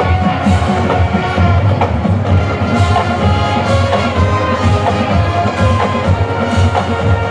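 Marching band playing: brass over drums, with a steady beat.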